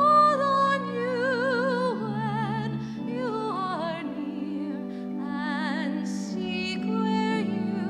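Slow classical-style singing, a single voice with wide vibrato, over sustained low accompanying chords.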